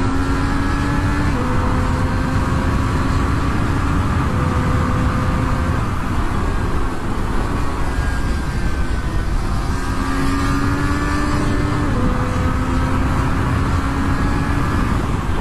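Motorcycle engine running at speed under a strong rush of wind noise, holding a steady note that drops slightly in pitch about a second in and again near twelve seconds.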